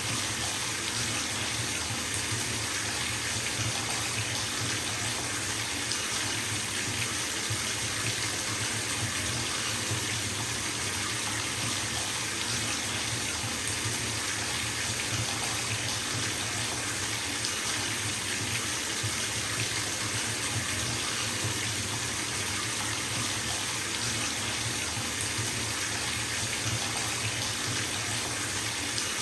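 Bathtub filling from a running tap: water pouring steadily into the tub, a continuous even rush.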